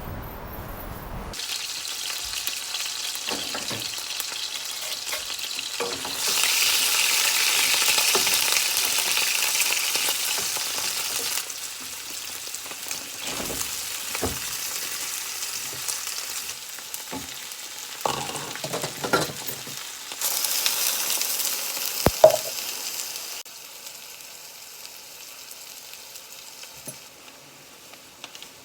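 Food sizzling in a hot pan with a steady hiss and occasional clicks of a utensil. The sizzle gets much louder twice, about six seconds in and again about twenty seconds in.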